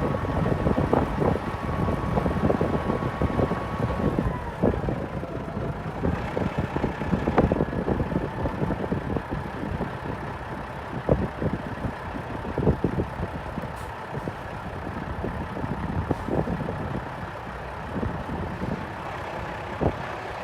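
Mack Super Liner dump truck's diesel engine running, with a steady whine that dips in pitch about five seconds in and then holds higher; irregular knocks and clatter over the engine noise.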